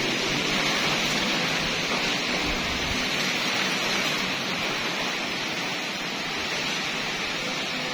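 Strong wind blowing in a steady hissing rush that swells and eases only slightly.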